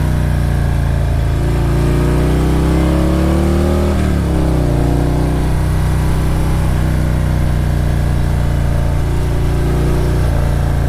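Motorcycle engine pulling under throttle, its pitch rising for a couple of seconds, then dropping suddenly about four seconds in as the throttle is rolled off or a gear is changed, then running steadily at cruising speed.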